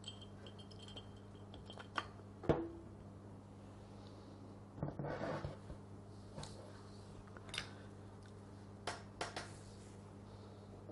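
Faint, scattered metallic clicks and knocks of small parts being handled as the shaft is fitted into the gear housing of a Bosch GSH 5 demolition hammer and secured with a C-clip, over a steady low hum. The loudest knock comes about two and a half seconds in, with a short run of clicks around five seconds.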